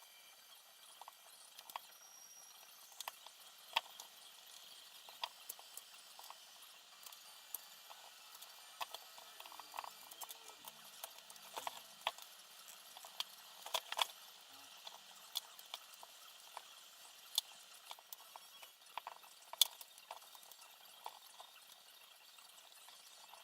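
Irregular light clicks and taps of small parts and tools being handled while assembling a quadcopter, a few louder ticks among them, over a low hiss.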